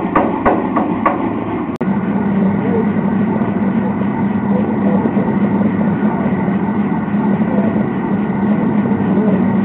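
Hammer blows on hot metal at the anvil, about four a second, stopping about a second in; after an abrupt break, a steady low mechanical hum with a few faint held tones fills the rest.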